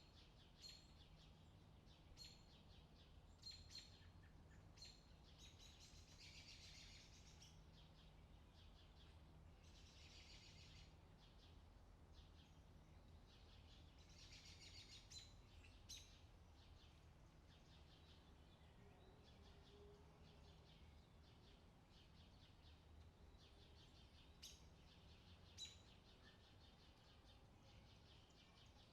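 Faint forest birdsong: scattered short, high chirps and three trilling phrases of about a second each, over a faint steady low hum.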